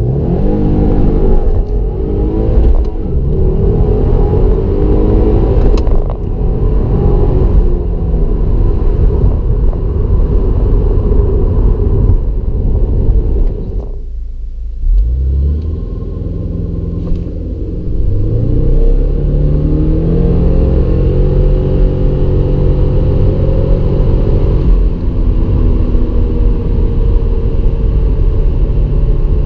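2016 Subaru WRX's 2.0-litre turbocharged boxer four accelerating hard from a standstill, heard from inside the cabin. In the first half the revs climb and drop back at each gear change of the six-speed manual. About halfway through comes a second run with the CVT auto in Sport Sharp mode, its revs rising in steps through simulated ratios.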